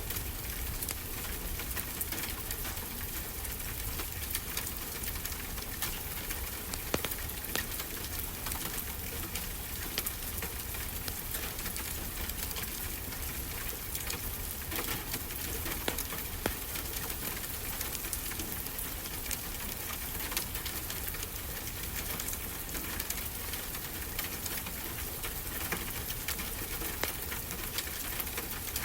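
Wood fire crackling with frequent sharp pops over a steady low rumble of ocean surf.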